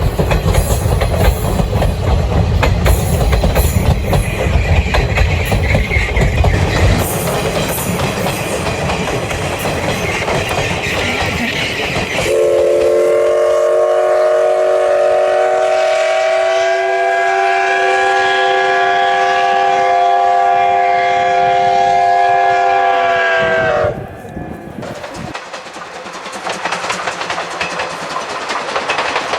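Steam locomotive C12 66 running with rumbling and rail clatter. About twelve seconds in, it sounds a long steam whistle: a steady chord of several pitches held for about eleven seconds that cuts off abruptly. Quieter running noise follows.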